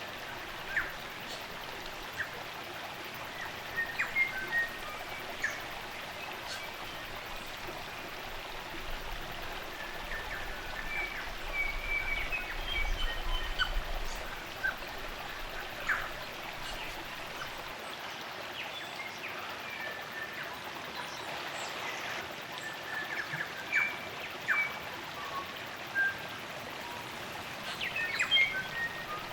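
Spring-fed stream running steadily, with New Zealand native forest birds calling over it in short chirps and whistled notes throughout.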